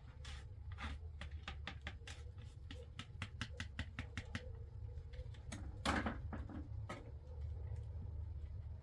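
A quick, irregular run of small clicks or taps, about five a second, fading out a little before halfway, then one louder knock about six seconds in, over a low steady rumble.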